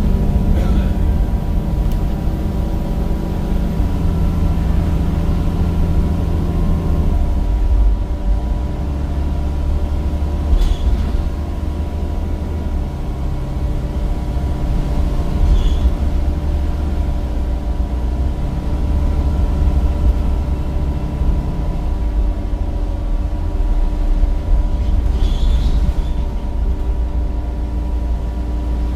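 Cummins diesel engine and ZF automatic gearbox of a Temsa Avenue bus, heard from inside while under way. The engine note shifts down and up several times with the gear changes and road speed, under a steady whine and a few brief squeaks.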